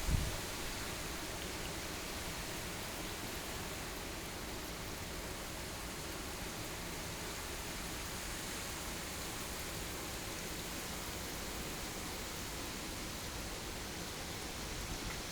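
Steady, even hiss of heavy typhoon rain. A low gust of wind buffets the microphone and dies away right at the start.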